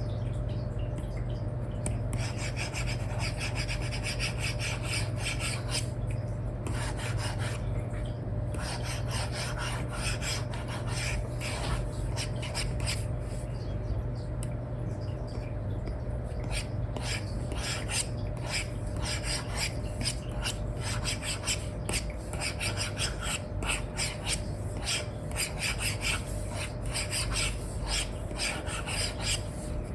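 Apple Pencil 2 with an Elecom nib scratching across a paper-like screen film on an iPad, in many quick, uneven strokes as it colours, over a steady low hum.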